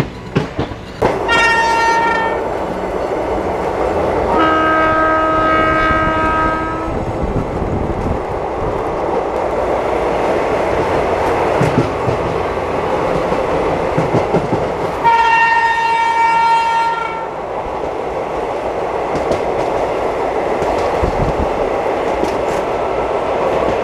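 Indian Railways train running on the track, heard from on board, with steady wheel and rail noise throughout. Train horns sound three times: a short high blast about a second in, a lower, longer blast around five seconds in, and another high blast about fifteen seconds in.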